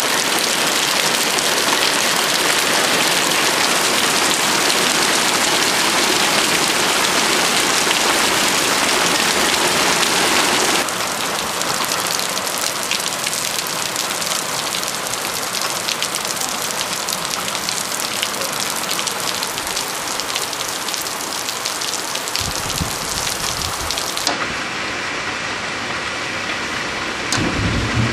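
Heavy rain and hail pelting a wooden deck, lawn and roof, a dense, steady hiss. It drops a little in loudness about eleven seconds in, and low rumbles come twice near the end.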